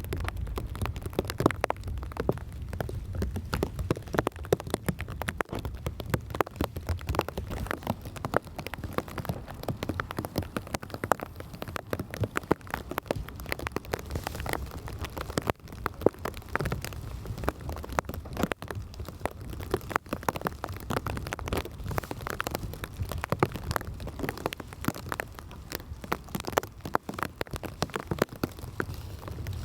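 Heavy rain falling, with many dense, irregular drops striking close by over a steady low rumble.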